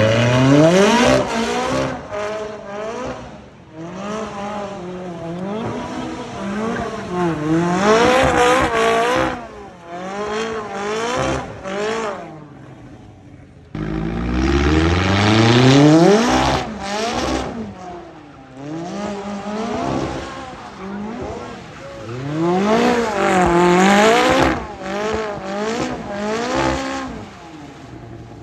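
McLaren 570S twin-turbo V8 being driven hard while drifting, its revs climbing and dropping again and again as the throttle is worked. The sound breaks off abruptly about 14 seconds in and picks up again.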